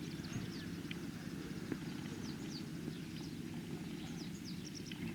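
Steady low rushing of the Kano River running high after the typhoon, with small birds repeatedly chirping in short, high, falling notes over it.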